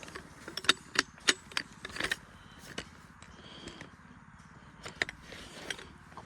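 A series of sharp, irregular clicks and clinks, about a dozen, loudest in the first two seconds and again around five seconds in, over a low steady hum.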